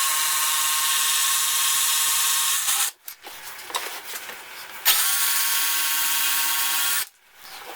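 Small electric sander running in two bursts, about three seconds then two, with a steady high whine, sanding the last cleanup off a jigsaw-cut notch in a wooden panel.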